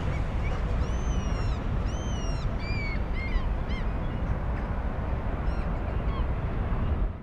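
Birds calling: a series of short, arched calls, several in quick succession in the first half and a few more later, over a steady low rumble.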